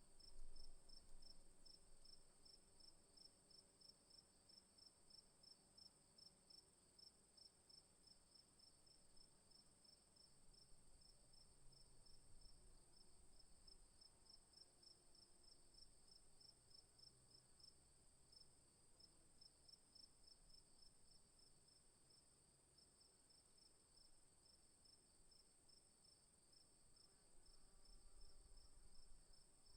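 Faint chorus of insects, crickets or similar: a steady high trill with a second, pulsing high chirp, over otherwise near silence.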